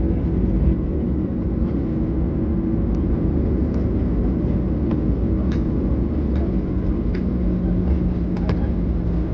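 Boeing 737-700 cabin noise: the engines and airflow make a steady low rumble heard from inside the cabin. A few faint clicks sound over it, and a low hum comes in near the end.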